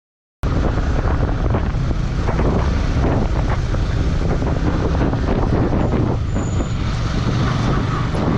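Motorcycle riding at speed: heavy wind buffeting on the microphone over engine and road noise. It cuts in suddenly after about half a second of silence.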